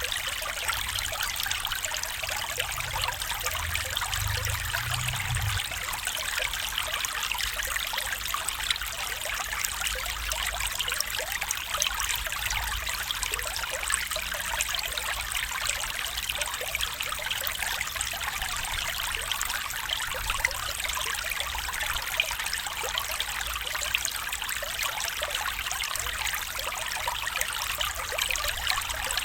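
A small stream trickling and babbling steadily over stones, with a faint low rumble underneath.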